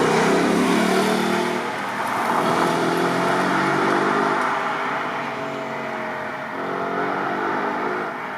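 Ford Mustang's 5.0 V8 accelerating hard, its engine note climbing and dropping through the gears, then fading as the car moves away near the end.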